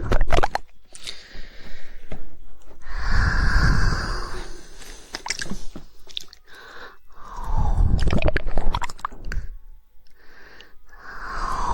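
Close-miked ASMR mouth sounds: quick runs of sharp tongue clicks in the woodpecker style, alternating with longer wet, squishy mouth noises.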